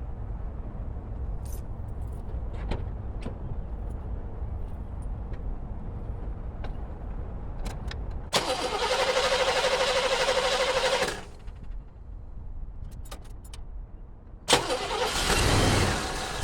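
Oldsmobile 307 V8 being cranked over by the starter for about three seconds without starting, then cranked again near the end and running.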